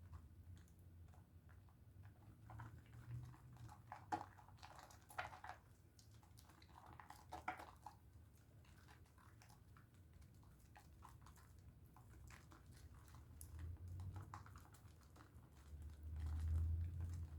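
Faint wet squishing and crackling of a bar of Dove soap being lathered in the hands, with a few sharper clicks, and a low rumble that swells near the end.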